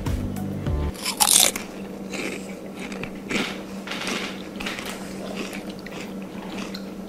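A person biting into a burger, loud and close, about a second in, then chewing with repeated crunches.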